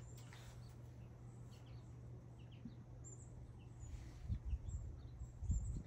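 Faint bird chirps over a low steady hum, with a few dull low thumps near the end.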